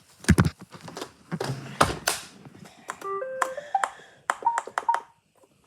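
Plastic clicks and knocks from an iRobot Roomba 540 being handled, then the Roomba plays a short rising run of electronic tones about three seconds in, followed by two short beeps with clicks near the end.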